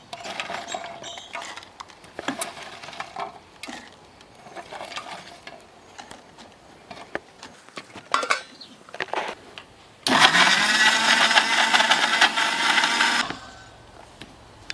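Small knocks and clicks of the jar being handled, then about ten seconds in an electric mixer grinder starts up with a rising whine and runs at full speed for about three seconds, grinding green chillies, before stopping suddenly.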